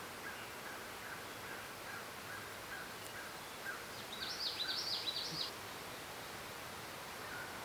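Woodland birdsong. One bird repeats a short chirp every half second or so for the first few seconds. About four seconds in, another bird sings a quick burst of high, falling notes.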